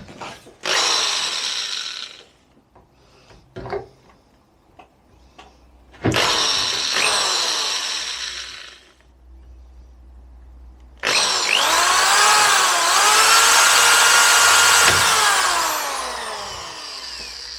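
Corded mains electric drill drilling a hole, run in three bursts: two short ones and then a longer run of about six seconds, the motor's pitch dipping and rising as it bites.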